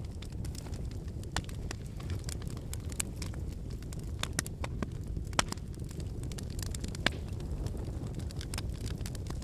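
Wood fire burning with a steady low rumble of flames and scattered crackles and pops of firewood, two sharper pops standing out about halfway through and a second and a half later.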